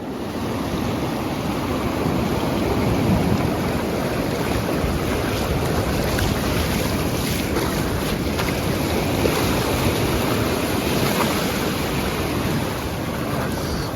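Wind rushing over the microphone, mixed with waves washing on the shore: a steady roar of noise.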